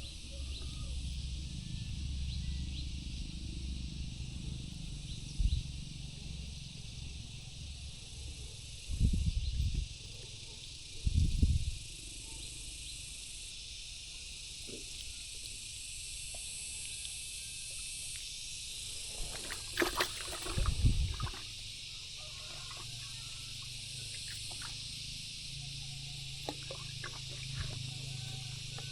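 Steady outdoor background hiss with a low rumble beneath, broken by a few short dull thumps and knocks, the loudest cluster about twenty seconds in.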